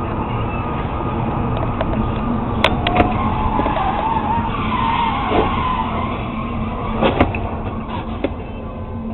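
Car tyres squealing in a skid over a few seconds, with a wavering pitch, over steady road noise, and a few sharp knocks about three seconds in and again near the end.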